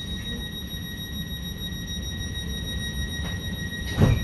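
Electric trains running side by side: a low running rumble under a steady, high-pitched whine that holds one pitch throughout. A single loud thump comes about four seconds in.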